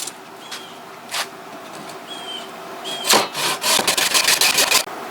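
Japanese trim saw cutting a slot into a maple handle blank: a few light taps, then a quick run of short sawing strokes, about five a second, over the last two seconds.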